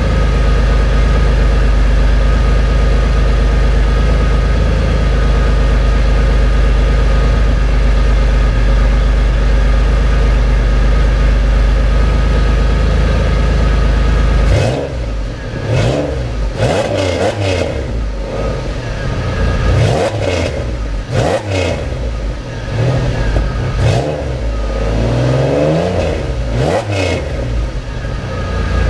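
Pontiac Fiero engine idling steadily through a new Flowmaster exhaust, then, about halfway through, revved in a series of quick blips, the pitch rising and falling each time, before settling back to idle at the very end.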